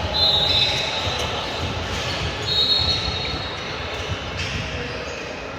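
Basketball shoes squeaking on a gym floor: two high squeals, one just after the start and another about two and a half seconds in. Underneath is the steady low rumble of a gym during play, with scattered thumps.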